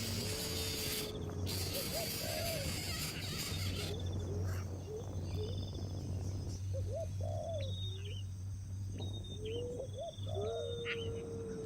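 Several birds calling: low arched hoots and long level whistles, mixed with higher sharp chirps and short trills. A high insect-like hiss drops out about four seconds in, and a steady low hum runs underneath.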